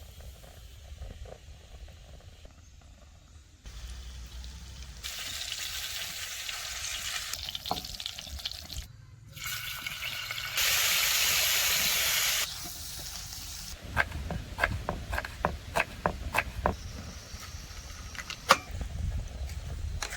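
Campfire cooking sounds: food sizzling and liquid hissing in a pan, loudest a little past the middle, then a run of sharp knocks, two or three a second.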